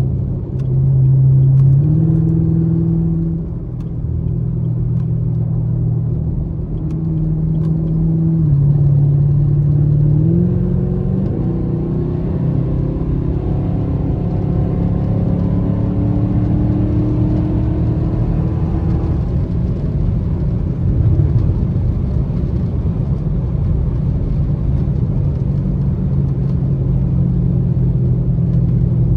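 Chevrolet Camaro SS V8 engine and exhaust droning under way. The pitch steps up and down a few times in the first ten seconds, climbs slowly for several seconds as the car accelerates around the middle, then settles to a steady cruise.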